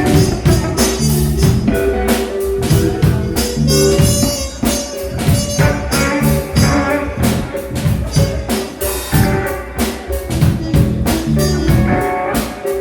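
A band playing a blues-rock song: a drum kit keeps a steady beat under guitar.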